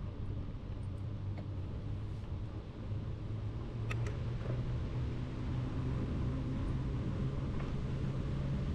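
Steady low rumble of wind and rolling noise on a cycling camera's microphone, with a faint hum and a couple of light clicks about four seconds in.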